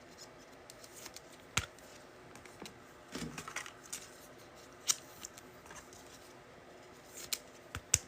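Trading cards being handled at a table: a few sharp clicks, with a soft rustle of cards a little past three seconds in.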